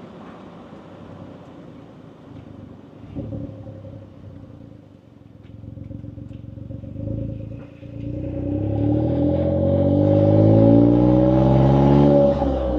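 Suzuki Jimny JB64's 660 cc three-cylinder turbo engine heard through an HKS Legal aftermarket muffler. It runs low and quiet at first, then about two-thirds of the way in the revs climb steadily under acceleration and the exhaust note grows much louder. Near the end it drops off sharply.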